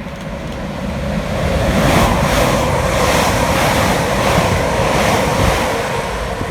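Two coupled Class 331 electric multiple units running past close by: a rushing of wheels and air that builds over the first two seconds and then holds steady, with a faint steady electric hum underneath.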